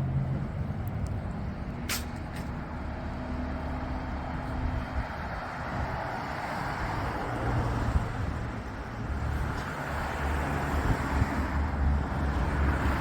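City street traffic: cars and other vehicles running, a steady low rumble with road noise swelling in the second half. A sharp click about two seconds in.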